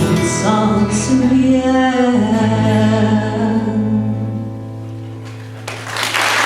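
Live band ending a song on a held final chord, with sung notes drawn out over it, dying away after about five seconds. Audience applause breaks out near the end.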